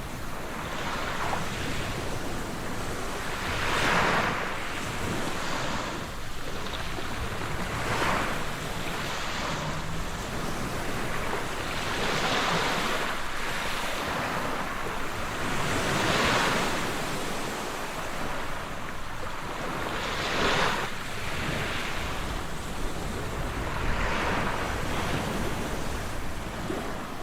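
Sea waves breaking on the shore, a steady wash of surf that swells with each wave about every four seconds.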